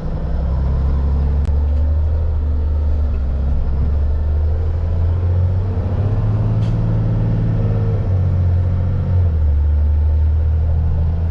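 Diesel engine of a Peterbilt 337 medium-duty box truck idling: a steady low rumble.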